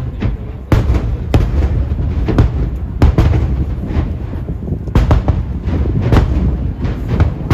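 Fireworks shells bursting one after another: sharp reports every second or so over a continuous low rumble of booms.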